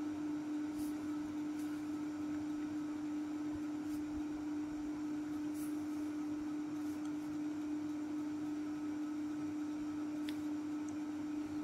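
A steady low hum on one constant pitch, with a few faint ticks scattered through it.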